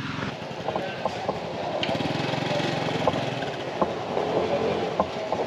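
Motorbike engine running steadily while riding along a road, with road and wind noise.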